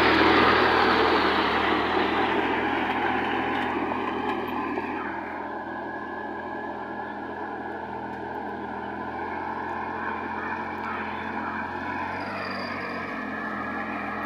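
Sonalika GT 26 mini tractor engine running steadily. A loud rushing noise over it at the start eases off over the first few seconds.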